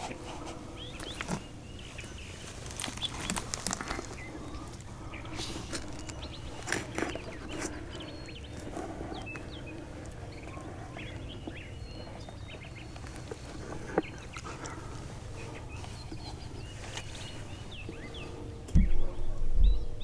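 Small birds chirping and calling in short notes over a low outdoor rumble, with a sharp click about fourteen seconds in. Near the end a series of loud low thumps comes in.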